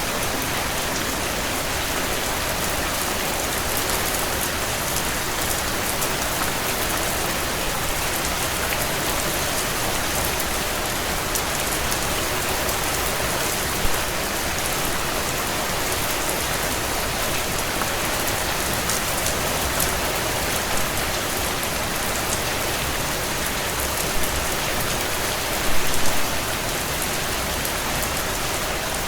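Steady heavy rain pattering on window panes, with a dense hiss of drops throughout. A brief sharp snap comes about halfway through, and a short cluster of louder snaps comes near the end.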